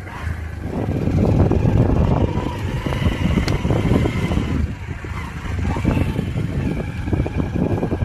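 Steady rumble of a motor vehicle on the move, growing louder about a second in.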